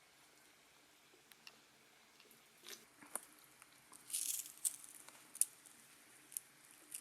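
Tortilla chips crunching as they are bitten and chewed, in a few scattered crisp crunches, the loudest burst about four seconds in.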